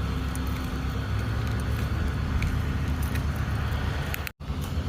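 Steady low rumbling outdoor noise with scattered faint clicks and jingles, cut off abruptly near the end.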